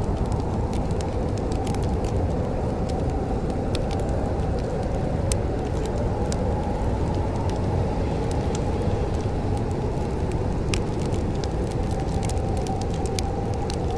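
Wood fire crackling in a fireplace, with irregular sharp pops and snaps scattered throughout over a steady low rumble.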